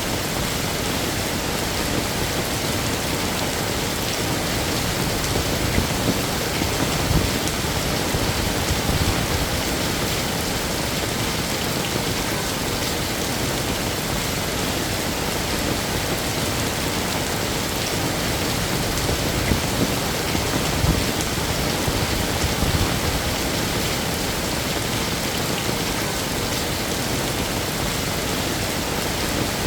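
Heavy, steady rain falling and hitting hard surfaces, with a few brief low swells a quarter of the way in and again past the middle.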